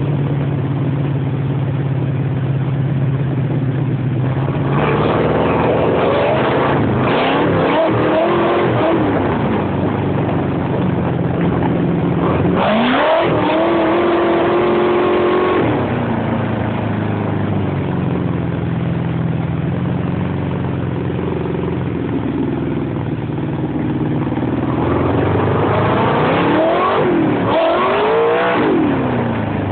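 A buggy's 40-valve V8 engine running under way, revving up and dropping back in three bursts of acceleration, about five, thirteen and twenty-six seconds in, with steadier, lower running between them.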